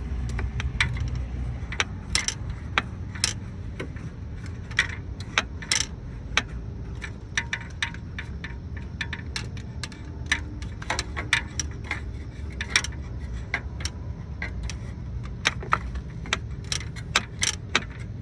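Metal hand tools clinking and clicking irregularly: a socket and extension being worked in an engine bay, with the clicks coming more thickly near the end. A steady low rumble runs beneath.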